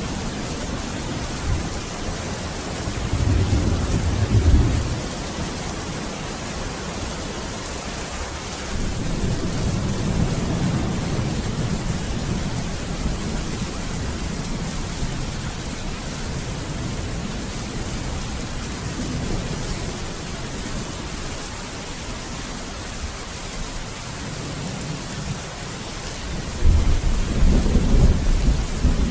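Steady rain with rolling thunder: a deep rumble swells about three seconds in, a longer, softer one around nine seconds, and the loudest near the end.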